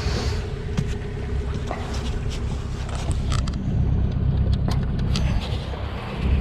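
Sailboat's engine running steadily under wind rumble on the microphone, with a few sharp clicks and knocks of gear being handled.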